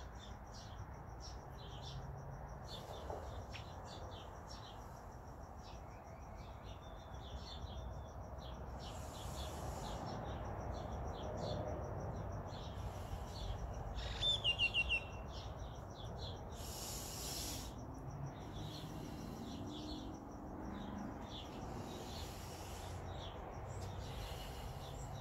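Small birds chirping and calling on and off, with a short, louder run of quick falling chirps about fourteen seconds in, over a low, steady background rumble.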